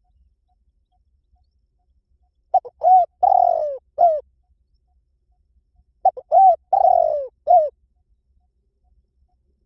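Spotted dove cooing its 'kích bổi' call: two phrases of four coos each, a few seconds apart, the third coo in each the longest, sliding down in pitch. It is the call played to train and excite decoy doves.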